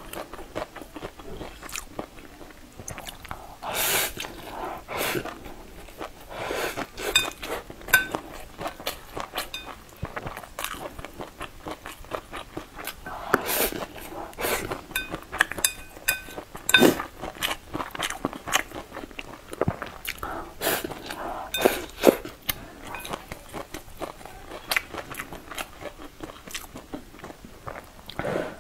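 Close-up eating sounds of a mouthful of stir-fried noodles and shredded vegetables: irregular wet chewing with bites and crunches. A few louder bites stand out several seconds apart.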